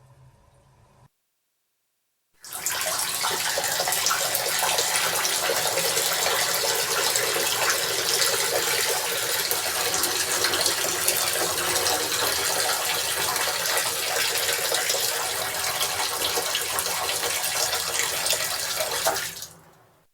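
Water running steadily from a tap into a sink, starting abruptly after a brief silence and fading out near the end.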